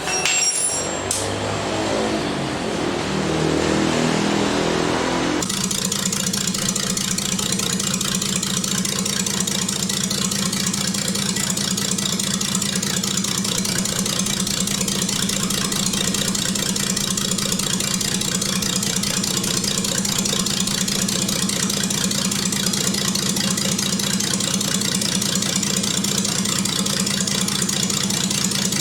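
A car engine running. Its sound shifts in pitch over the first five seconds, then settles abruptly into a steady idle.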